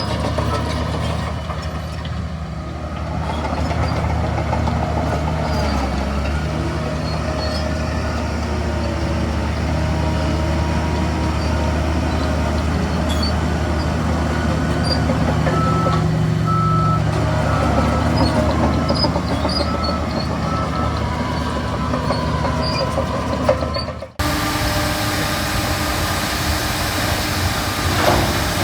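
Heavy diesel construction machinery, a bulldozer and dump trucks, running steadily under load. A reversing alarm beeps at an even pace around the middle. About three-quarters of the way through the sound changes abruptly.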